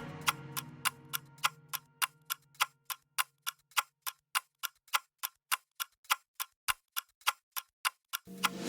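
Clock ticking evenly, about three ticks a second, with the tail of music fading out under it at first; music comes back in near the end.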